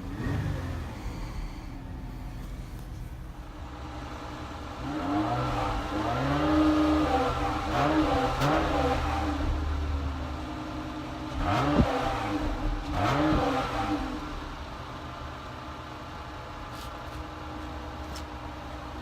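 Chrysler Pacifica's 3.6-litre Pentastar V6 being revved: a short blip, then a run of several revs rising and falling, the first held flat at the top by the rev limiter, then two quick blips before it settles back to a steady idle.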